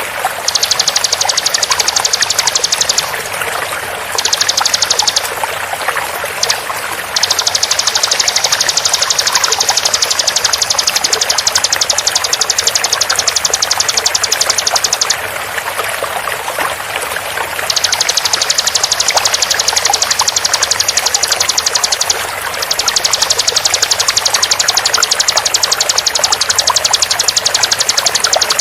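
Bar-winged prinia (ciblek) singing its rapid 'tembakan' trill: very fast repeated high notes in long runs of several seconds with short breaks, over a steady sound of flowing water.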